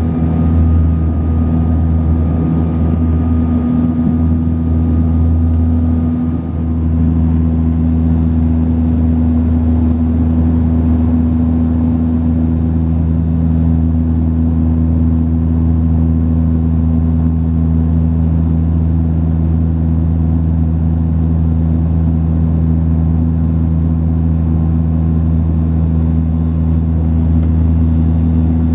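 Saab 340B twin-turboprop cabin drone: the engines and propellers give a loud, steady hum made of several low tones. A faint high whine fades out about six seconds in.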